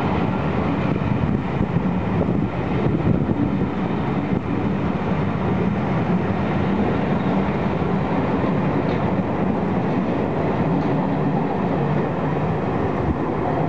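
Passenger coaches of a departing train rolling past close by: a steady rumble of steel wheels on the rails and over the joints.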